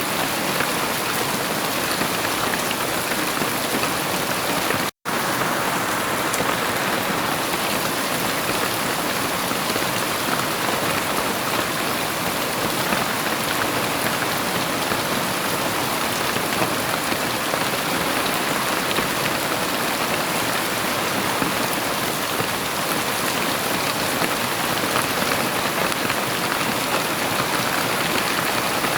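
Heavy rain falling steadily in a dense, even hiss, with a split-second gap about five seconds in.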